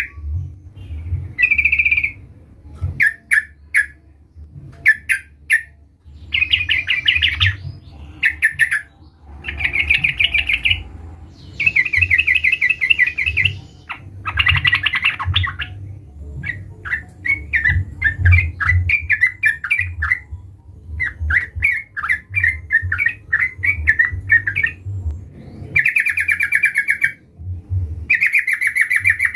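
Sooty-headed bulbul (trucukan) calling over and over in bubbly, chattering phrases of rapid notes. Each phrase lasts a second or two, with short pauses between them.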